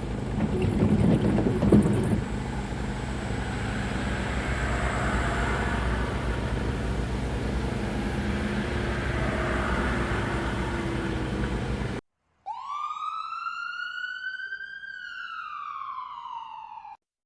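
Truck driving on the road, with a steady mix of engine and road noise that cuts off abruptly; after a short gap comes a clean siren-like wail that rises, holds and slides back down over about four seconds.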